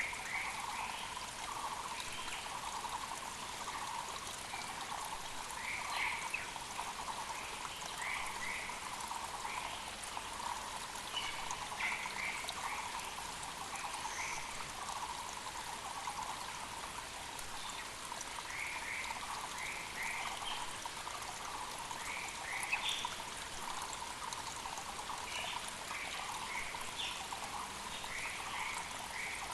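Mountain creek running steadily, with a Muller's barbet repeating its low rapid call throughout and other birds adding short higher chirps now and then.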